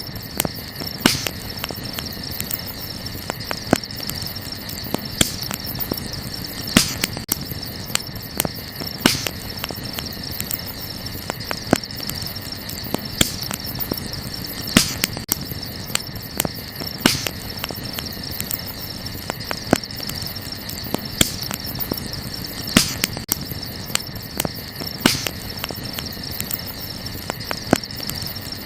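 Wood campfire crackling, with sharp pops every second or two over a constant fine crackle, and a steady high chorus of night insects behind it.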